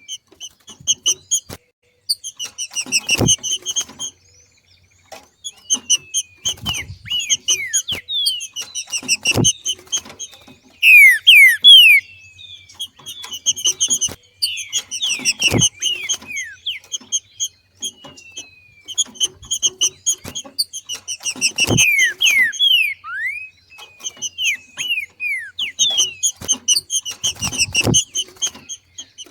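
Green-winged saltator (trinca-ferro) giving its chattering 'macheado' call in repeated bursts of rapid high notes, mixed with short downward-slurred whistles. The loudest burst comes about eleven seconds in. A few faint low knocks sound among the bursts.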